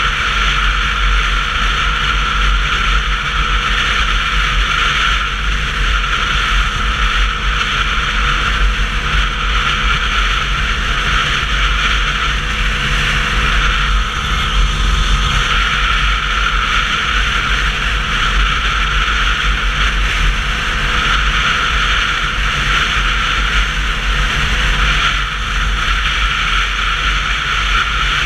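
Steady wind and road noise on a Sinnis Terrain 125cc motorcycle while riding, with a constant rushing hiss over a low rumble.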